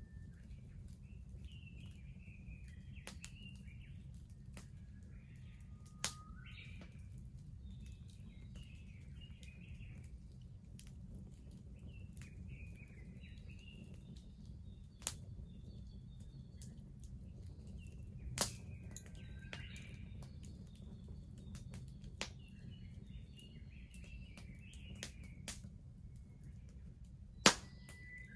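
Wood fire crackling, with scattered sharp pops, the loudest near the end, while small birds chirp and twitter.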